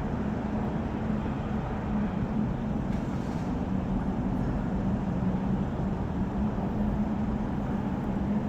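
Steady vehicle drone: a constant low hum with rumbling noise underneath, unchanging throughout.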